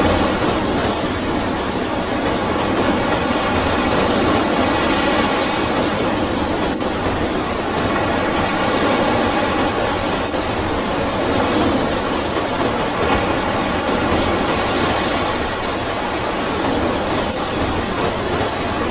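Floodwater rushing steadily, a constant, loud, even roar of noise with no breaks.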